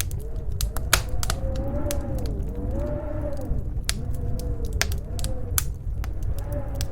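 Wood fire crackling with frequent sharp pops over a steady low wind rumble, while snowstorm wind howls in a wavering pitch that rises and falls every second or so.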